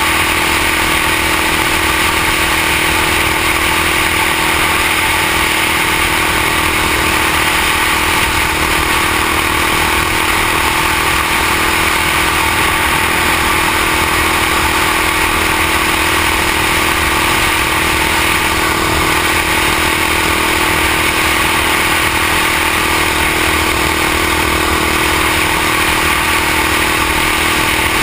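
Honda XR650L's single-cylinder four-stroke engine running steadily while the three-wheeler cruises at constant speed on a paved road, with no revving or gear changes.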